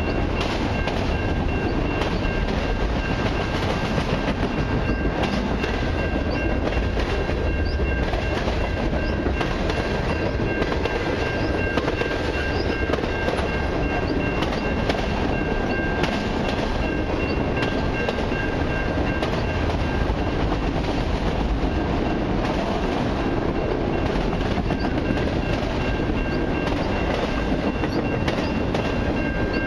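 Freight train of autorack cars rolling past close by: a steady rumble of steel wheels on rail with frequent clicks and clacks, and a steady high-pitched tone running above it.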